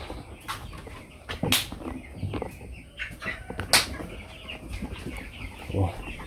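Broiler chickens clucking in a poultry house, with scattered small knocks and two sharp, louder knocks, one about a second and a half in and one past the middle.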